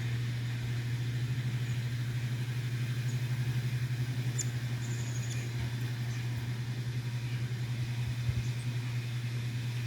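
A motor running steadily, a low hum with a fast, even flutter. A few faint high bird chirps come about halfway through.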